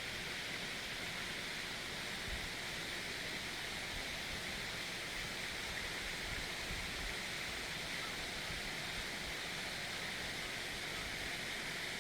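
A forest stream running steadily, an even rush of water.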